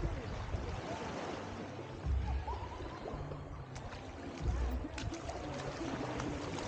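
Beach ambience: water washing at the shore under a steady hiss, with gusts of wind buffeting the microphone about two and four and a half seconds in and faint voices in the distance.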